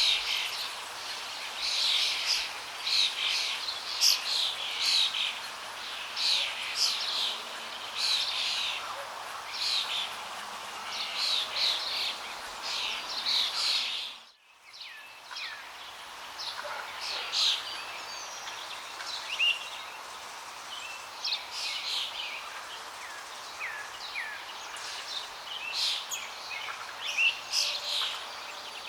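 Many birds chirping and calling in quick, overlapping short notes over a steady rush of flowing water. About halfway through, both drop out for a moment and then come back, as at an edit join.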